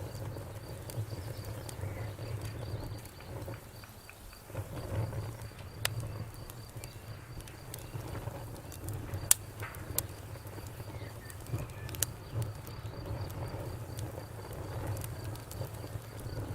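Campfire crackling: a low steady rumble of flame with scattered sharp pops, the loudest a little past the middle. Crickets chirp in a steady, even rhythm.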